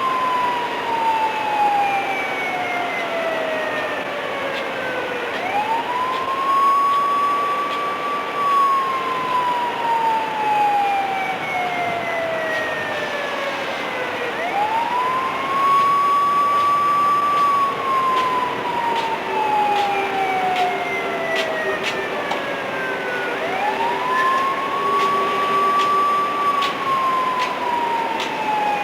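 Siren wailing in slow cycles. Its pitch climbs quickly, holds high for a couple of seconds, then slides slowly down, about every nine seconds, three times over. There are light clicks in the second half.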